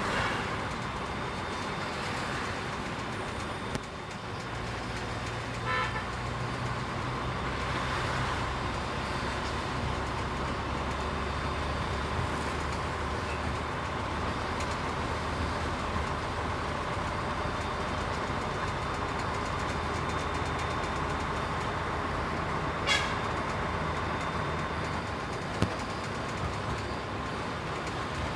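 Container truck's diesel engine running steadily under way through traffic, heard from the cab. Two short horn toots sound, about six seconds in and again near the end.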